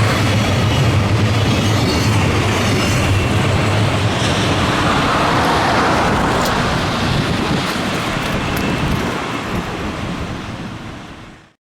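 Train running past close by: a loud, steady rumble and rush of wheels on rail that eases off and then cuts off suddenly near the end.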